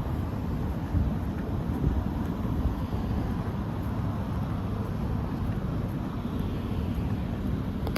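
Outdoor street noise: a steady low rumble of road traffic with wind buffeting the microphone.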